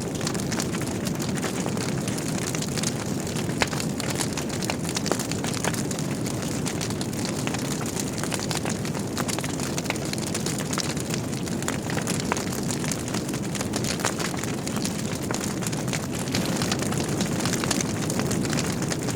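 Logs burning in a wood fireplace: a steady low rush of flame with frequent small crackles and pops, a sharper pop about three and a half seconds in.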